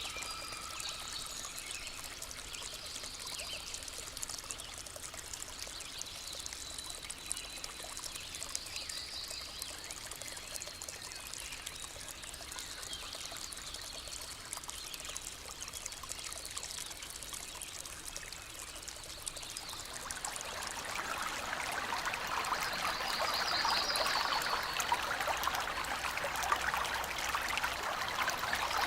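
Water of a small stream flowing and trickling steadily, growing louder about two-thirds of the way in. A few brief high chirps sound over it.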